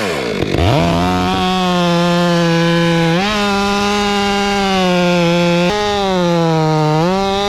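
A chainsaw goes from quick throttle blips to full revs in the first second and cuts into very hard Australian pine (ironwood). The engine's pitch steps up about three seconds in, sags under the load a couple of seconds later, and climbs again near the end.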